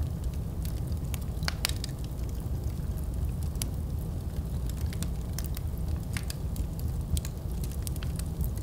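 Fire burning in a fireplace, crackling with irregular sharp pops and snaps over a steady low rumble of the flames.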